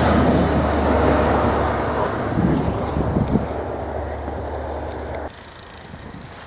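A vehicle passing on a snow-covered road, its tyre and engine noise loudest at first and fading as it moves away. The sound cuts off abruptly about five seconds in.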